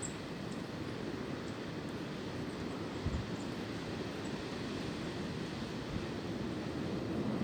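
Wind blowing through swaying tree branches: a steady low rushing with no clear pitch, with one slight gust-like bump about three seconds in.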